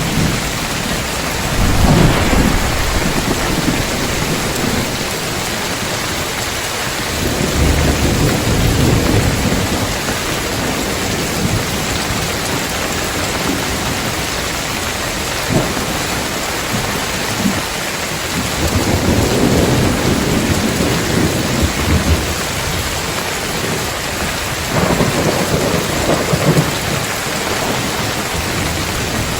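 Heavy rain falling steadily on roof tiles, with thunder rumbling several times, swelling and fading, and a few sharp cracks of nearer thunder.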